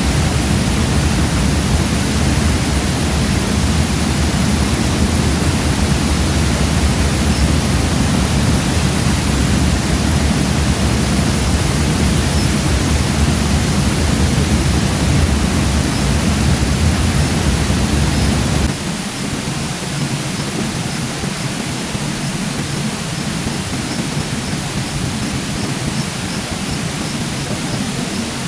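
Steady rush of a mountain river and waterfall, a dense even hiss with a deep rumble. About two-thirds of the way through, the rumble drops out abruptly and the sound gets a little quieter.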